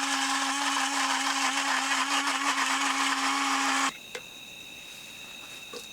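Instacuppa battery-powered portable blender running steadily as it grinds small chopped pieces into a paste, then switched off suddenly about four seconds in. After that, crickets chirping steadily.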